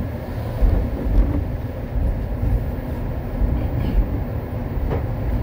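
Wolmi Sea Train car running along its elevated track, a steady low rumble with a few faint clicks.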